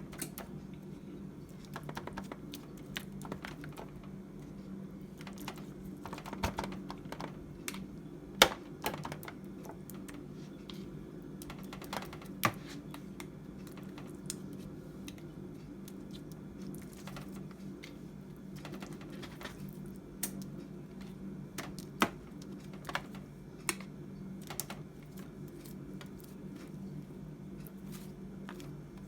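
Irregular light clicks and taps of a basting brush and utensils working sauce onto a rack of ribs, with a few sharper knocks about 8 and 22 seconds in, over a steady low hum.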